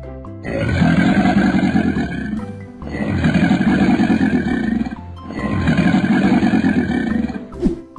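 Cartoon crocodile sound effect: three long, rough growls of about two seconds each, with short pauses between them.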